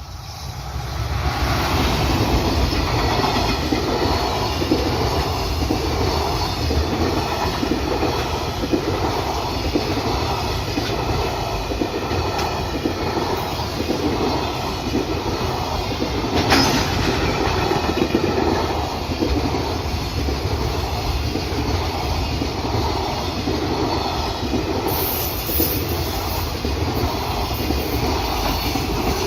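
Freight train running past, its wheels clattering in an even rhythm over the rail joints. The sound swells in about a second in and then holds steady, with one sharp click about halfway through.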